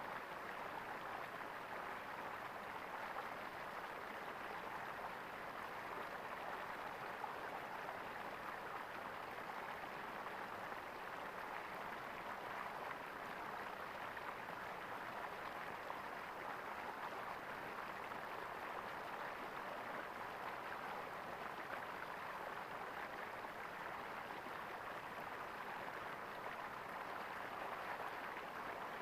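Small stream of water gurgling steadily over stones.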